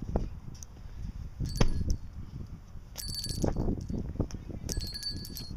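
Two short metallic rings, about a second and a half apart, each a steady high tone that fades, with a few clicks before them.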